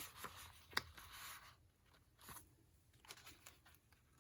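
Faint rustling and crinkling of the paper pages and envelopes of a handmade junk journal being handled, with a sharp tap about a second in and a few soft clicks later.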